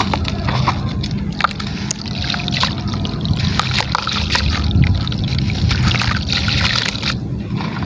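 Gritty, crumbly material being broken up in water: many small crackles and light splashes and sloshing, over a steady low rumble.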